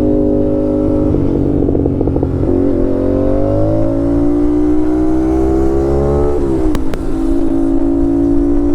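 Aprilia RS 457's parallel-twin engine through an aftermarket SC Project exhaust: it runs steady, goes choppy as the bike gets moving, then the revs climb for about four seconds under acceleration before dropping sharply at a gear change. Two short, sharp pops follow just after the shift.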